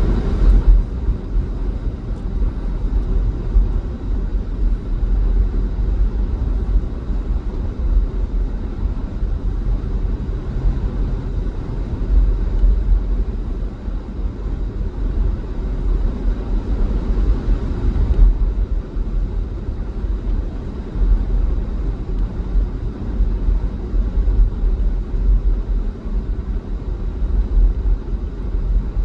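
Car driving on a highway, with a steady low road and engine rumble. About 18 seconds in, the fainter hiss on top of it drops a little.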